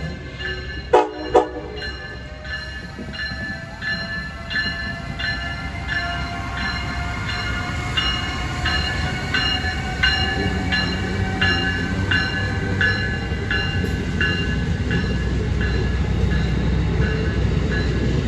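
Train sounds two short horn blasts about a second in. A bell then rings steadily, a little under twice a second, over the low rumble of the train, which slowly grows louder.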